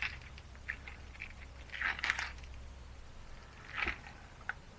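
A plastic quart bottle of gear oil being squeezed empty into the differential's fill hole, its sides crinkling and crackling in a few short bursts, the loudest about two seconds in.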